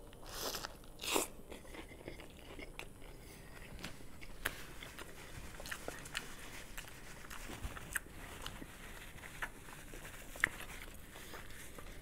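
Bites into a double-double cheeseburger on a toasted bun: two short crunchy bites within the first second and a half, then chewing with scattered small mouth clicks.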